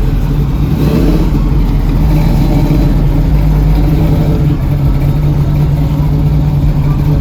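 A car engine running loud and revving, with a rise in pitch about a second in.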